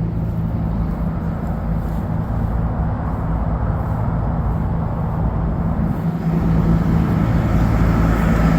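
Cummins 6.7 L inline-six diesel of a Ford F750 truck running at idle, a steady low hum that grows louder about six seconds in, with a faint whine rising near the end.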